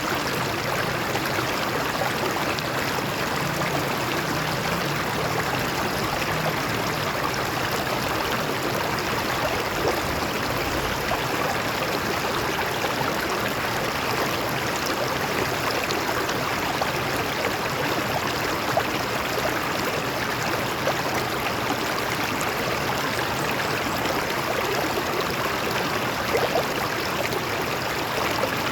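Water flowing over rocks in a stream: a steady, unbroken rush with fine splashing.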